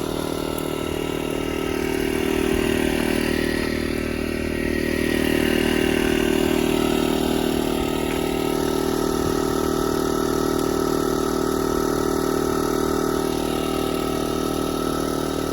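Pressure washer's small gasoline engine running at a steady speed, a constant drone through the whole stretch, swelling slightly for a few seconds.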